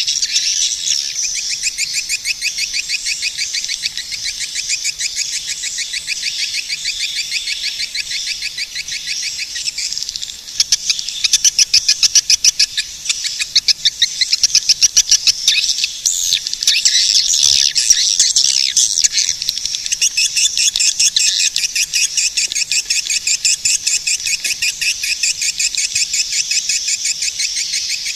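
Swiftlets chirping in a fast, even run of high twitters. The chirping grows louder for several seconds from about a third of the way in.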